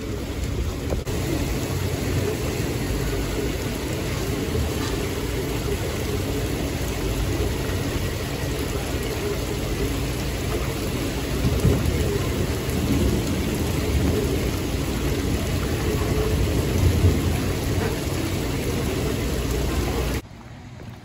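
Heavy rain pouring down, a steady dense rushing with deep rumbling, swelling louder about eleven and seventeen seconds in. It cuts off abruptly near the end.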